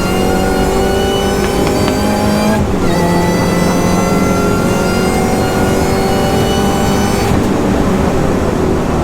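High-performance Mini's engine running hard at speed around a race circuit, with a gear change about two and a half seconds in and the revs climbing again after it.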